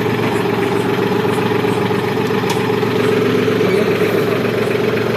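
Massey Ferguson 6026 tractor's diesel engine running steadily at idle.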